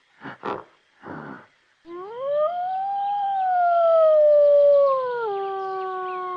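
A canine howling: one long howl that rises, arches and slowly falls, then drops to a lower held note about five seconds in. It is preceded by a few short rough bursts in the first second and a half.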